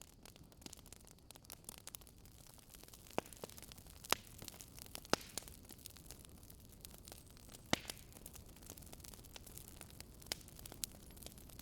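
Campfire crackling: burning wood gives off irregular sharp pops and snaps over a faint hiss, with a few louder snaps about four, five and nearly eight seconds in.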